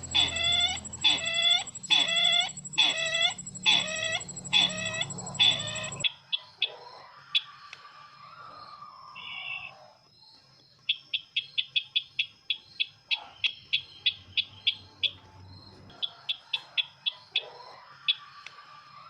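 Sisintar ladang bird calls, the kind played as a lure for bird trapping: harsh calls repeated about one and a half times a second, then, after an abrupt change about six seconds in, quick dry ticking chirps in fast runs with a few softer, longer calls between them.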